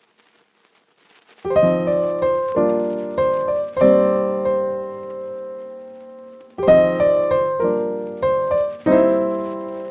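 Background music: piano chords struck one after another, each ringing out and fading, starting about a second and a half in after near silence.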